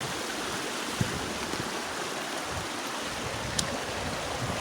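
Rushing water of a rain-swollen creek, a steady even rush, with a short knock about a second in and a small click later on.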